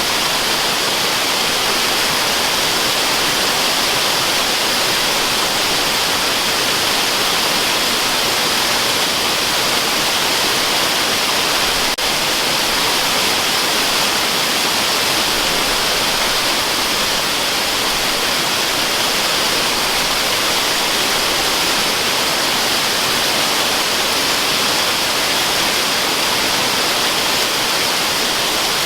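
Waterfall rushing, played as white noise: a steady, unchanging hiss, strongest in the upper treble with little low rumble.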